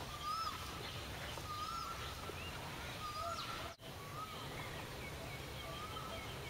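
Outdoor ambience with a low steady rumble, through which a bird repeats a short hooked whistle about every second and a half, with fainter high chirps between. The sound drops out for a moment about four seconds in.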